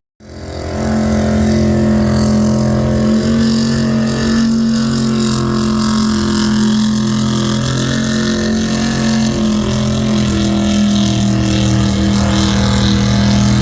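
V8 pulling tractor's engine running hard at steady, high revs, its note holding nearly constant pitch. It comes in after a brief gap at the start.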